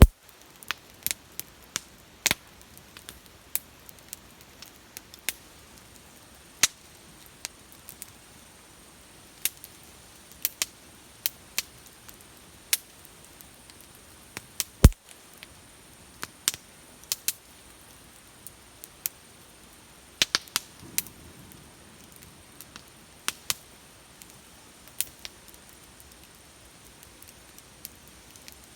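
Wood bonfire crackling: irregular sharp pops and snaps, with louder pops right at the start and about fifteen seconds in.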